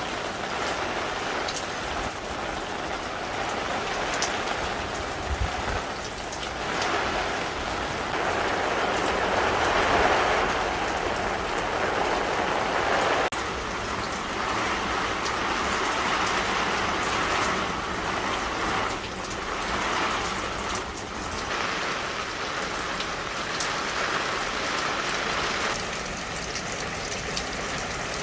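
Heavy downpour: a dense, continuous rush of rain that swells louder and eases again several times.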